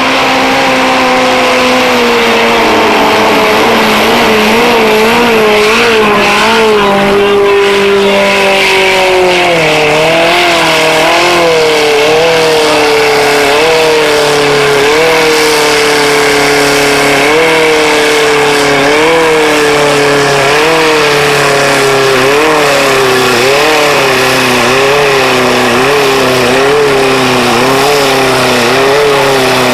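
Formula off-road car engine running hard at high revs, its pitch wavering up and down about once a second as the throttle is worked, and dropping a step around a third of the way in.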